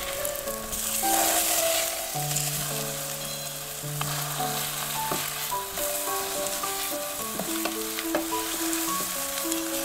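Slabs of tofu sizzling steadily in hot oil in a nonstick frying pan as they are turned with a spatula, with a few light taps of the spatula against the pan.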